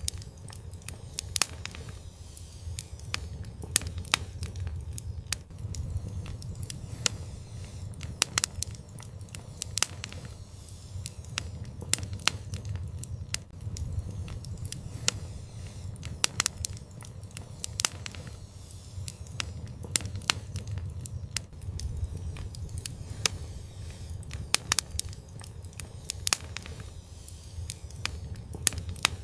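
Wood fire in an outdoor fireplace crackling, with frequent sharp irregular pops and snaps over a steady low rumble of the flames.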